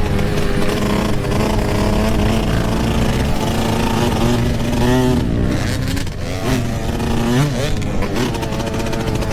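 Yamaha YZ125 125cc two-stroke dirt bike engine under way, holding a steady pitch for the first few seconds, then revving up sharply about five seconds in and rising and falling with the throttle through the rest, over a steady rushing hiss.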